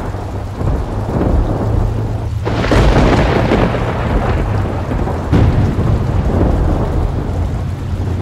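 Thunder rumbling continuously with steady rain, with sharper thunderclaps breaking in about two and a half and five and a half seconds in.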